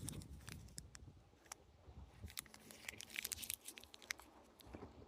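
Faint, irregular crackling and crunching of footsteps through dry leaves, twigs and brush.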